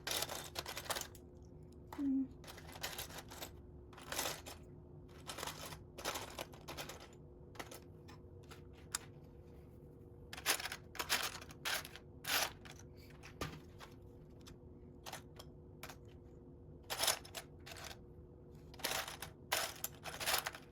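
Plastic Lego pieces clicking and clattering as they are sorted through and handled, in short irregular rattles throughout, over a faint steady hum.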